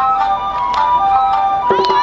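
Awa Odori festival music: a bamboo flute plays a stepping melody over sharp percussion strikes. A wavering call starts near the end.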